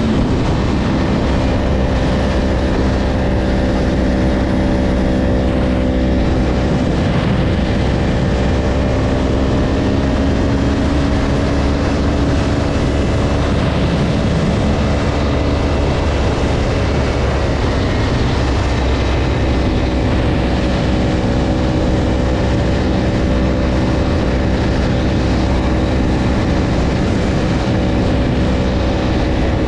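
Yamaha R1 sport bike's inline-four engine running at a steady cruise, holding an even pitch, with a brief slight dip in pitch a little past halfway before it settles back.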